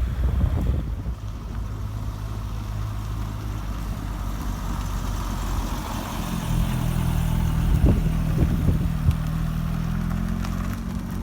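Car engines running at a steady idle; about six seconds in, a second engine's steady, slightly higher note comes in.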